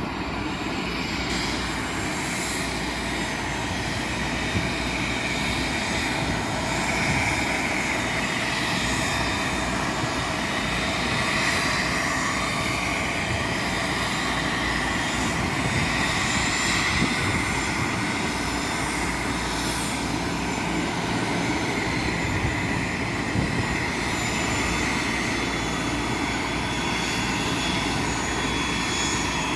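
Airbus A320 jet engines running steadily: a broad rushing noise with a whine that wavers slightly in pitch.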